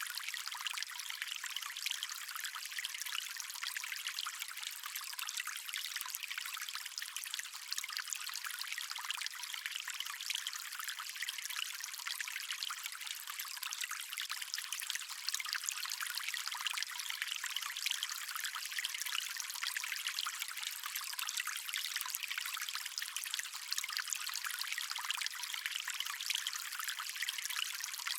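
Stream water flowing and trickling in a steady, even wash of sound that is thin and hissy with almost no low rumble.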